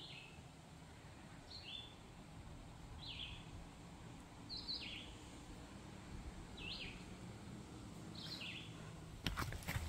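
A songbird in the woods repeating the same short phrase, two quick downward-slurred notes, about every one and a half seconds, six times. Sharp clicks and rustles come in near the end.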